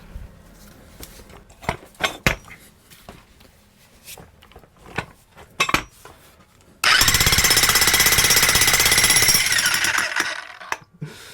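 A few scattered knocks, then about seven seconds in a Harbor Freight Hercules electric jackhammer starts hammering rapidly. It drives a homemade welded tamper plate into loose dirt on its first test run, then stops after about three seconds and winds down.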